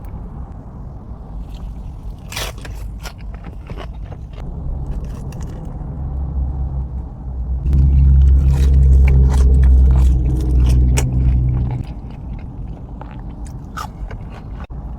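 Close-up eating sounds: biting into and chewing crispy fried chicken, with short crunchy crackles throughout. From about six seconds in to about twelve, a loud low steady hum sits under the chewing.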